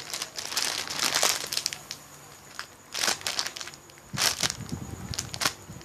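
Thin plastic bag crinkling and rustling in irregular bursts as a homemade sponge squishy wrapped in it is handled and squeezed.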